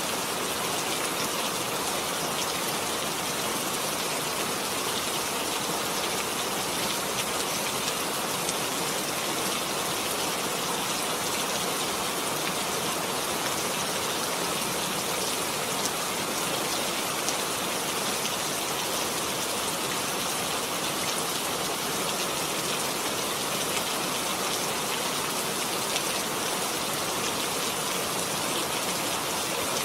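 Heavy rain falling steadily: a dense, even hiss of drops with no breaks or changes.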